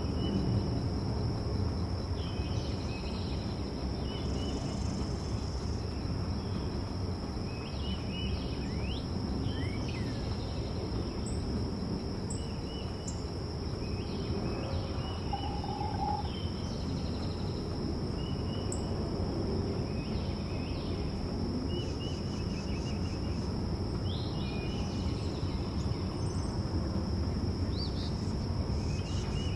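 Backyard birdsong: many short, scattered bird chirps and calls over a steady, high-pitched insect drone and a constant low background rumble.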